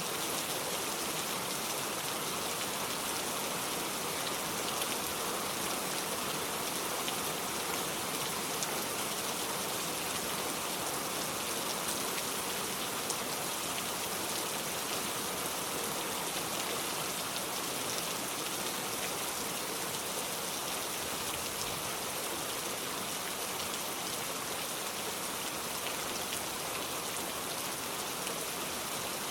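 Steady rain falling on a surface, a dense even hiss with the patter of individual drops.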